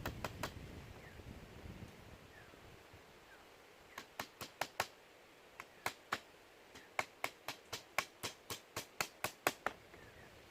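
Sharp, separate strikes of a tool on wood: a couple at the start, four quick ones a little before halfway, then an even run of about four a second through most of the second half.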